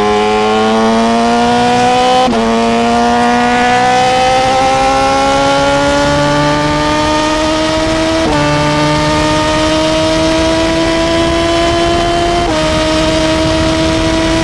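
Suzuki GSX-R sport-bike engine accelerating hard through the gears: its pitch climbs steadily, and it shifts up three times, dropping in pitch at each shift, about two seconds in, about eight seconds in and near the end.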